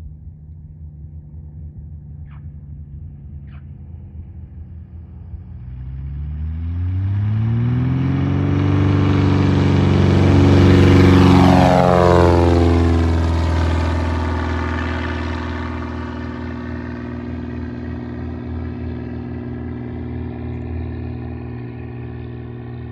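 Cessna 180's six-cylinder piston engine and propeller passing close by: the sound grows as the plane approaches, drops sharply in pitch as it goes past about twelve seconds in, then carries on lower and slowly fades.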